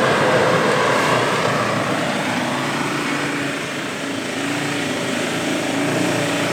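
Diesel 4x4 SUV engine running under load off-road, a steady rumble with a faint engine note that wavers and eases slightly about four seconds in before picking up again.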